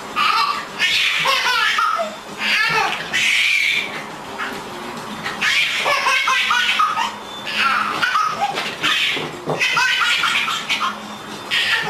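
A baby laughing in repeated bursts, high-pitched and bending up and down in pitch.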